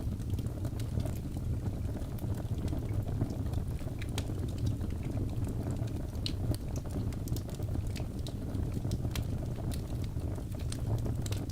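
Birch logs burning in a fireplace, crackling with many small, irregular pops over a steady low rumble of the flames.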